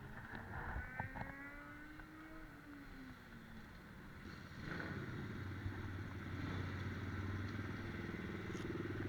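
Small four-stroke pit bike engines: one engine's pitch falls away over the first few seconds, then about five seconds in a closer engine takes over, running steadily and getting a little louder.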